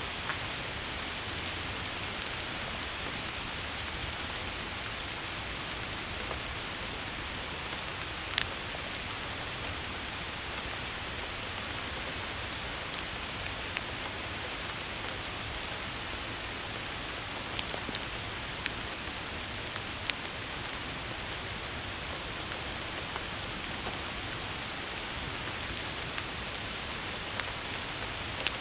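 Steady rain falling, an even hiss, with a few sharp ticks scattered through it.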